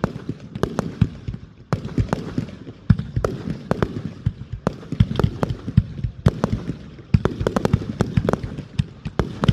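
Fireworks going off in quick, irregular succession: many sharp bangs and crackles, some overlapping.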